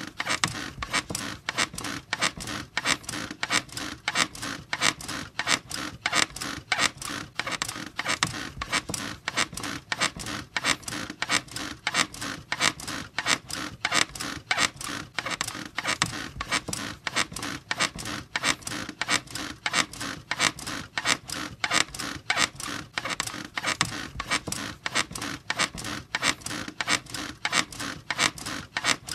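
Squeaky bed squeaking over and over in a steady, quick rhythm.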